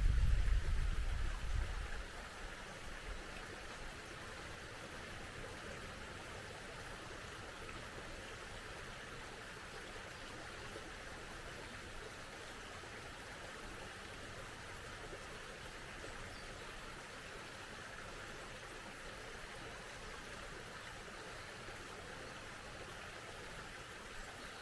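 Mountain stream flowing, a steady even rush of water. A low rumble fades out over the first two seconds.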